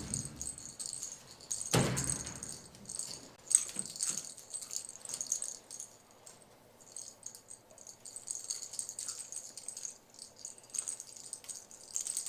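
Small bell inside a toy ball jingling on and off as the ball is handled and rolled, with a thump about two seconds in.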